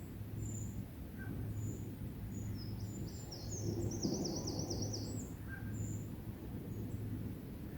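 Small birds calling with thin high-pitched notes, with a quick run of about seven notes around the middle, over a low steady hum and rumble.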